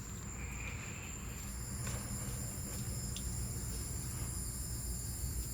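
Crickets chirring in a steady, high-pitched chorus over a low rumble.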